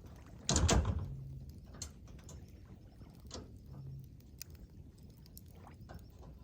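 Campfire crackling with scattered small pops, and one louder crackling burst about half a second in.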